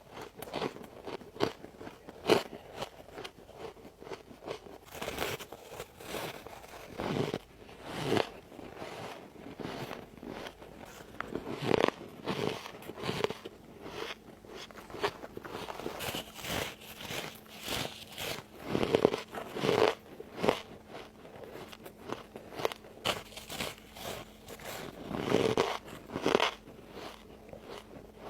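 A person biting and chewing ice close to the microphone: a steady run of crunching and cracking, with several louder bites scattered through.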